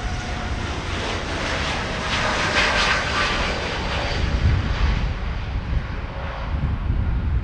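Boeing 787 Dreamliner's twin jet engines on take-off, passing by: a low rumble under a hissing jet noise with whining tones that slowly fall in pitch, loudest two to three seconds in and then easing off.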